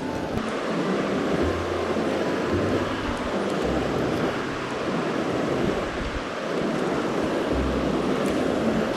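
Mountain stream water rushing steadily over rocks, a continuous loud hiss of flowing water.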